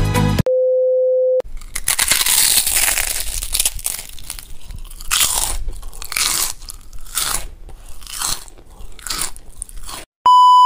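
A steady electronic beep of about a second, then a run of crunching bites and chewing of crisp food, a crunch every half second to a second. Near the end comes a louder, higher electronic beep.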